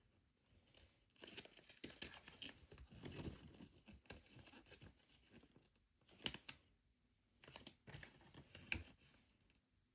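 Faint rustling and crinkling of small plastic packaging being handled and torn open, in several short spells with crackly clicks.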